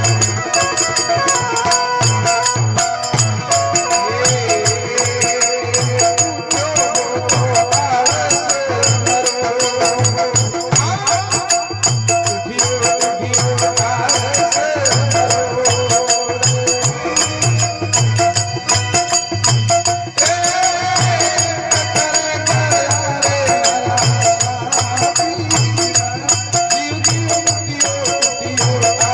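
Instrumental interlude of a Rajasthani folk bhajan: a steady, evenly repeating drum beat with jingling percussion under a wavering melody line.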